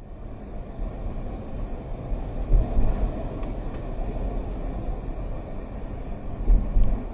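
Steady rumbling noise of a moving vehicle, with low thumps about two and a half seconds in and again near the end.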